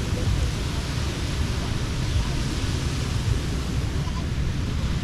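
Steady beach ambience: surf washing in, an even hiss with a strong low rumble underneath and faint distant voices.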